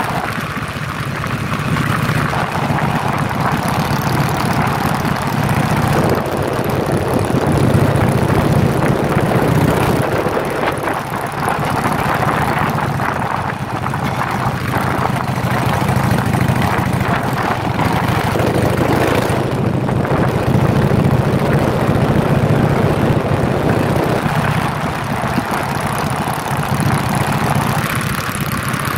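Harley-Davidson Sportster V-twin motorcycle riding at road speed. The engine is heard from the rider's seat under a steady rush of wind, its pitch shifting a few times with the throttle.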